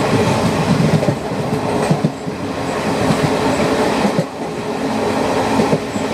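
Moving passenger train running along the track: a steady rumble with irregular short low knocks from the wheels on the rails.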